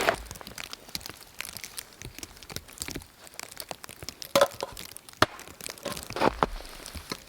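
Irregular sharp cracks and crunching sounds, with a few louder cracks about four, five and six seconds in.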